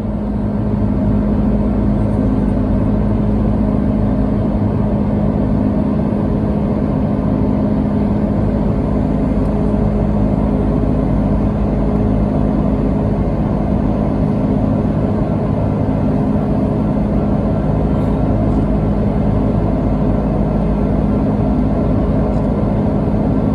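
Airbus A330 jet engines heard from inside the passenger cabin: a loud, steady drone with a low hum. It swells up over the first second and then holds level.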